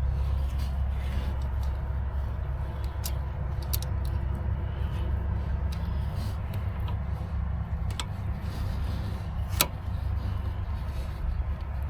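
A steady low rumble with a few scattered sharp metallic clicks and taps of hand tools during a brake caliper job, the loudest click about ten seconds in.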